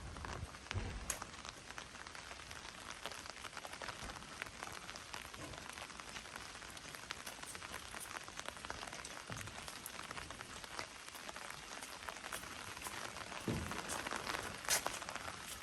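Steady rain falling, with many small drop hits heard as fine ticks over a constant hiss, and a few soft low thuds, likely footsteps, scattered through it.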